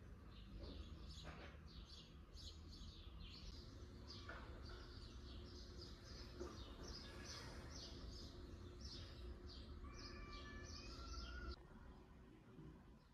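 Faint birds chirping in quick, repeated high notes, with a few short whistled phrases. The chirping stops suddenly near the end.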